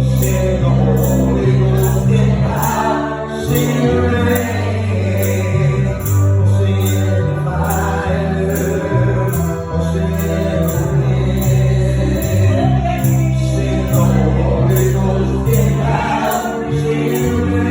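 Live gospel praise-team performance: a choir singing over a band with a strong bass line and a steady beat, with tambourine.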